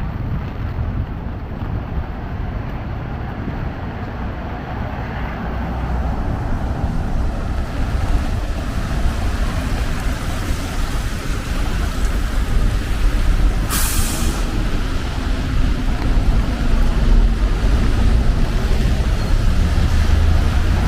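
Steady city traffic rumble with wind on the microphone, and a short sharp hiss of a large vehicle's air brake about two-thirds of the way through.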